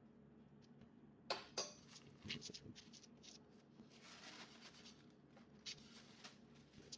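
Faint kitchen handling sounds: two sharp clicks of utensils or dishes about a second in, then lighter taps and a brief scraping hiss, over a low steady hum.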